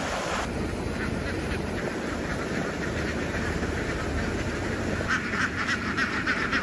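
A large flock of farm ducks quacking over a steady low rumble. The quacking grows denser and louder about five seconds in.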